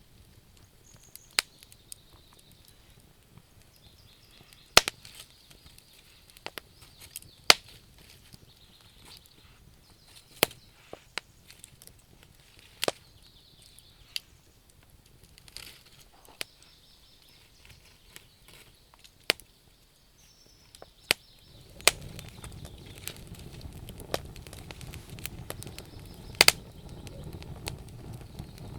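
Wood fire crackling, with irregular sharp pops and snaps of burning wood, a few much louder than the rest. A faint high chirping runs behind it, and a low rushing sound comes up about three quarters of the way through.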